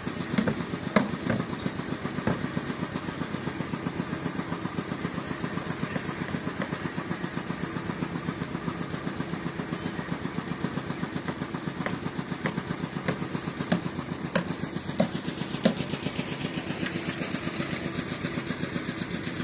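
An engine running steadily at an even speed with a fast regular pulse. A few sharp knocks land on top, mostly near the start and again past the middle.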